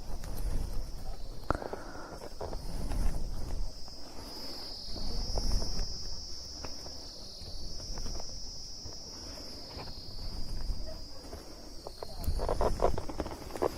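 Insects shrilling in a steady, high-pitched chorus that wavers gently, over low rumbling and scattered knocks, with a cluster of sharp clicks near the end.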